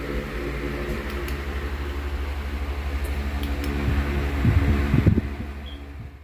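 Steady low mechanical hum with a few louder low swells a little past halfway, fading out at the very end.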